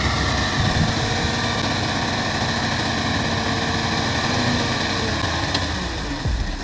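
An engine running steadily, its pitch easing slightly in the first second.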